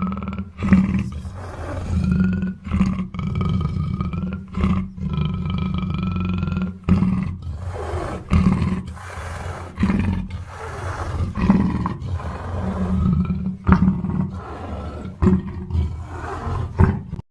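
Black panther roaring, a string of calls broken by short breaks.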